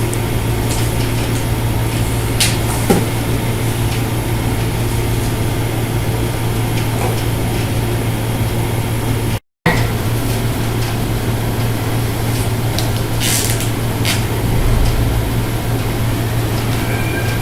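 A steady low mechanical hum with hiss, broken by a few short light clicks.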